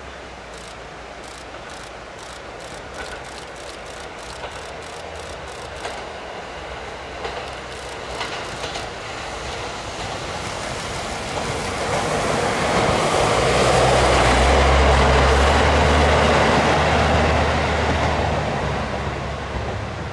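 A passenger train approaching and passing on the rail line, its wheels clicking over the track in the first half. It grows steadily louder, is loudest about three-quarters of the way through with a deep running hum, then fades as it moves away.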